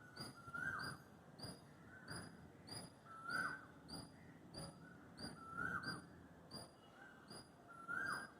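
Woodpecker tapping on a tree trunk, with short knocks coming irregularly a few times a second. Another bird repeats a short whistled note with a falling tail every second or two.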